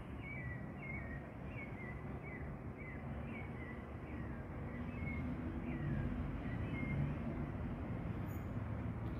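A bird chirping over and over, short high notes about two a second that die away about seven seconds in, over a low traffic rumble that grows a little louder in the second half.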